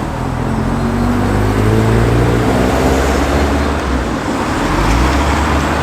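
Car engine running at low, fairly steady revs as a car drives by on the road, the pitch drifting slowly and the sound swelling slightly midway.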